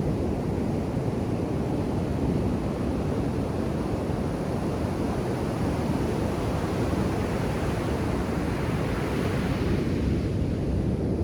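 Ocean surf breaking on a beach: a steady low rush of waves, with a brighter hissing swell of a breaking wave near the end.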